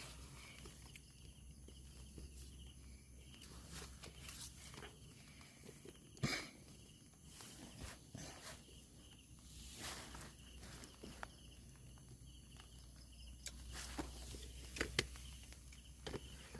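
Faint scattered rustles and clicks over a low steady hum, with one sharper knock about six seconds in.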